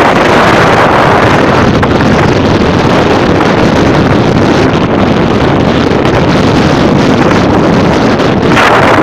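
Storm wind blasting across the microphone: a loud, steady rushing roar with no let-up.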